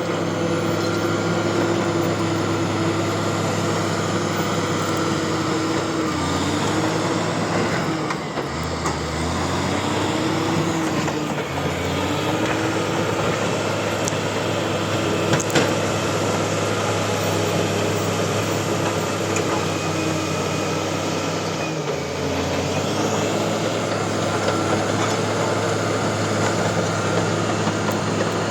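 Bulldozer's diesel engine running steadily at working speed, its pitch sagging and recovering several times as it takes load, between about a fifth and two-fifths of the way in and again about three-quarters of the way in.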